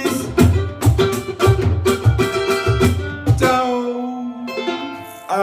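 A samba band with cavaquinho and percussion playing the close of a song, with steady drum strokes. The beat stops about three and a half seconds in, leaving a held final chord ringing.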